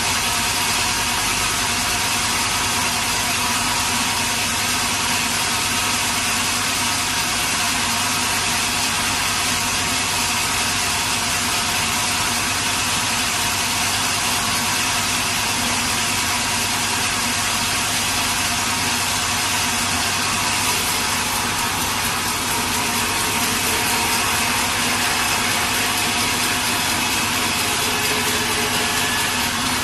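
Sawmill machinery running with a steady, unchanging mechanical noise and a few faint constant tones.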